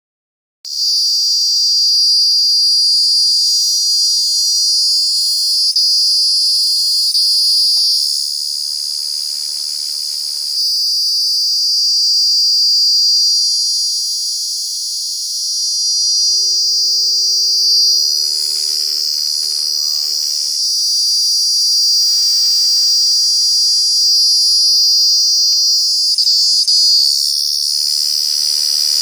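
Cicadas droning in a loud, continuous high-pitched buzz that swells and eases slightly in loudness.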